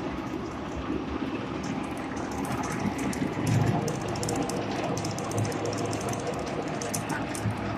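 Feed mixer running while mixing animal feed: a steady mechanical rumble with a dense, rapid clatter, swelling a little louder about halfway through.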